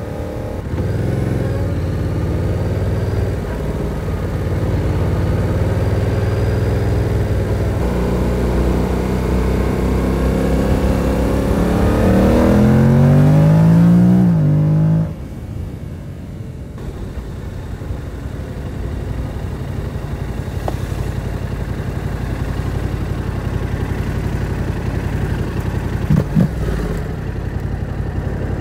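2022 Yamaha R7's 689 cc parallel-twin engine, heard from the rider's seat, pulling under throttle with the revs climbing, louder and higher toward the middle. About halfway through the throttle shuts suddenly and the engine drops to a lower, steadier note for the rest of the ride, with a short blip near the end.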